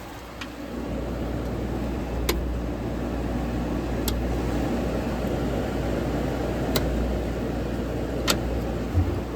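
Vintage Modular Air 8,200 BTU window air conditioner with a rotary compressor, running steadily: a low compressor hum under the blower's air noise, with a few light clicks. It runs smoothly, as a good runner.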